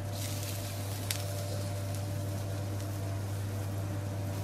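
Minced ginger dropped into hot oil in a wok, sizzling briefly in the first second, with one sharp tick about a second in. A steady low kitchen hum runs underneath.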